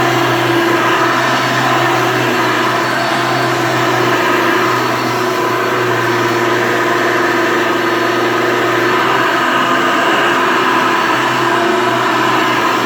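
Hoover Elite vacuum cleaner running steadily at full power: a constant motor hum under a loud rush of air as it picks up debris from the floor.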